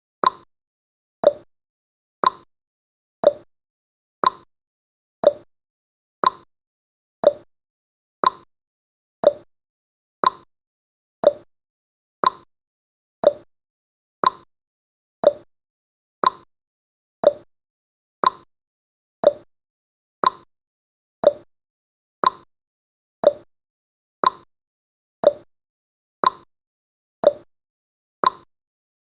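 Countdown timer's tick sound effect: one short, sharp tick every second, steady and even, alternating slightly between a higher and a lower tone like a tick-tock.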